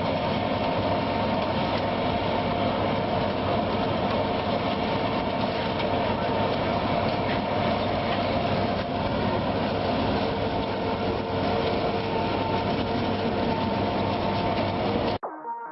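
Farm machinery running steadily, a dense mechanical noise with a constant hum; it cuts off abruptly near the end.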